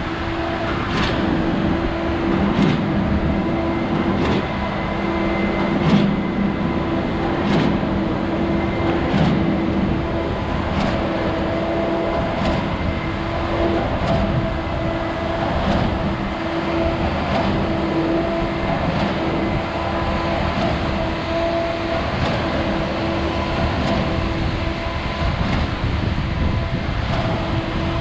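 A vehicle running steadily with a constant hum, and a sharp click about every second and a half.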